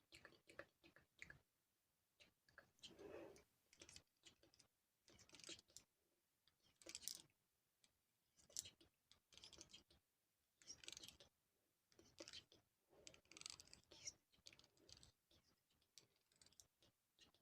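Close-miked ASMR trigger sounds, played quietly: irregular soft clicks and taps mixed with short rustling swishes that come every second or two.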